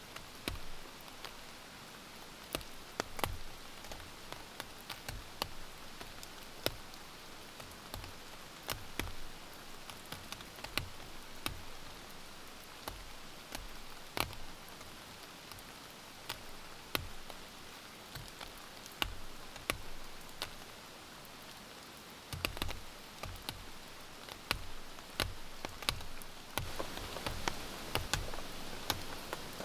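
Rain falling steadily, with many irregular, sharp drops striking close by. Near the end the rain grows louder.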